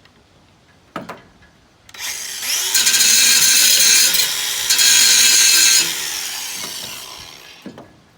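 Angle grinder spinning up and grinding metal for a few seconds, then winding down slowly after release. A sharp click comes just before it starts.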